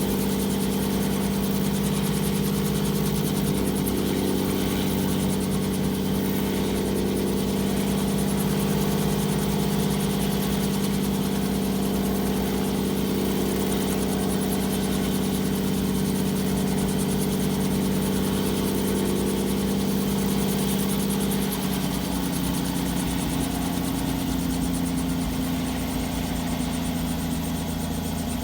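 Robinson helicopter running with a steady, even drone. About three quarters of the way through, its pitch shifts and it gets slightly quieter.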